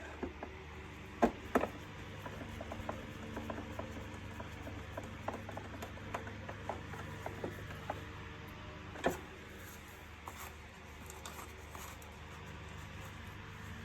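Plastic parts of an Electrolux EASE C4 bagless vacuum cleaner being handled and fitted together during reassembly: sharp clicks and knocks, the loudest just over a second in and again about nine seconds in, with a run of small ticks between.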